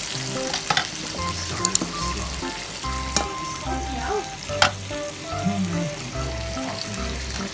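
Salmon fillets sizzling in oil on a ridged grill pan, a steady frying hiss broken by a few sharp clicks.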